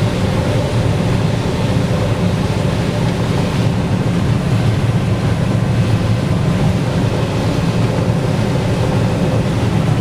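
Combine harvester running steadily while harvesting corn, a constant low mechanical drone.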